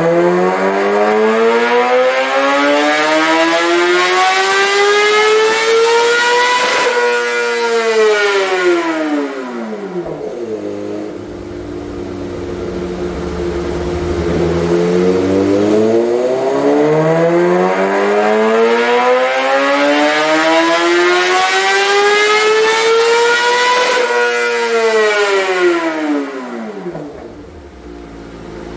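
2026 Kawasaki Ninja ZX-6R inline-four, through a full M4 GP exhaust with the baffle out, making two full-throttle dyno pulls. The revs climb steadily to the top, then drop back to idle about 7 s in; a second pull climbs from about 15 s, peaks about 24 s in and falls back to idle. This is the bike running on its freshly flashed ECU.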